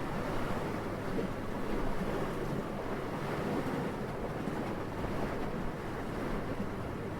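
Steady, gentle wind blowing, a soft, even rushing sound with no gusts or breaks.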